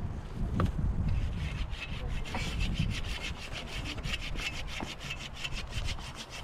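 Steady rhythmic rasping strokes, about five a second, like a hand saw or scraping tool working on wood, over a low rumble.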